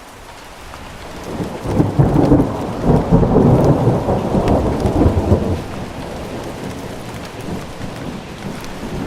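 Rain falling with a long roll of thunder that builds over the first couple of seconds, rumbles loudest for a few seconds, then slowly dies away under the steady rain.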